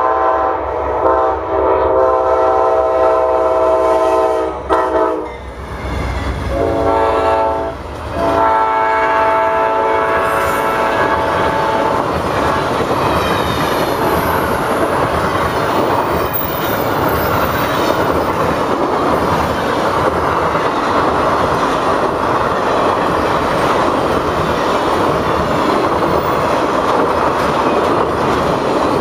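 GE P42DC diesel locomotives sound their multi-note horn in several long blasts for a road grade crossing, the horn stopping about twelve seconds in. Then a long string of passenger cars rolls past with a steady rumble of wheels on rail.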